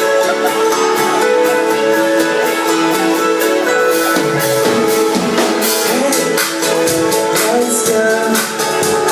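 Live band playing with drums and guitar, held chords under an even drum beat, loud.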